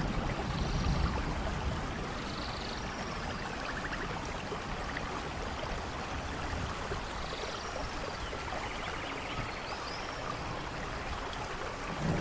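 Steady rainfall in a rainforest thunderstorm, with a low thunder rumble dying away in the first second or two. Short high animal calls sound a few times over the rain.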